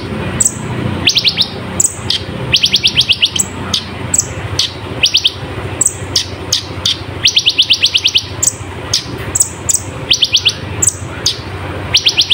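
Kolibri ninja sunbird singing in full voice: short fast trills of high repeated notes every second or two, broken up by sharp high chips and quick falling notes, over a low steady hum.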